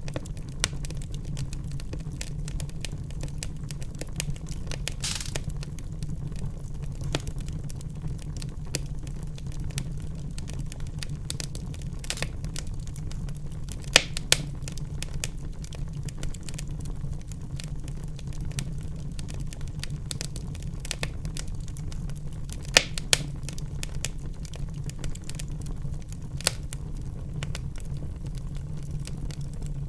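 Wood fire burning in a fireplace: steady crackling over a low rumble, with a few louder pops, about two near the middle and two more later on.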